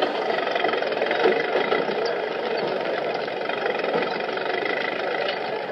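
Old motor vehicle engines running in street traffic, a steady engine hum with traffic noise, dubbed onto the film as a sound effect.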